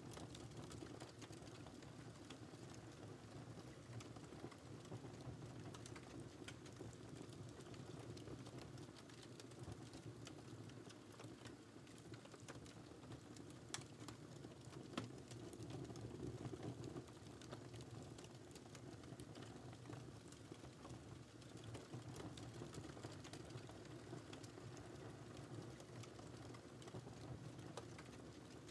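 Wood fire crackling softly, a steady low rumble of burning with scattered small pops and two sharper pops about halfway through.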